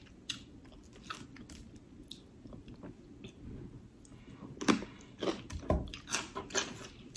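Close-up mouth sounds of someone chewing snow crab meat: soft wet clicks, sparse at first, then coming faster and louder in the second half.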